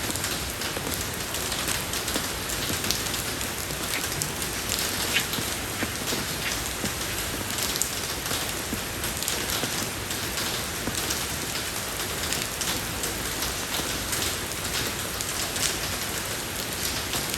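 Steady rain falling on a road surface, an even hiss with the patter of individual drops.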